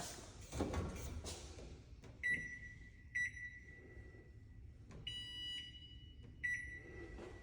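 An electronic beeper sounds a steady, high-pitched tone from about two seconds in, with sharp louder restarts three times and a second, higher tone joining briefly around five seconds. A few knocks come in the first second and a half.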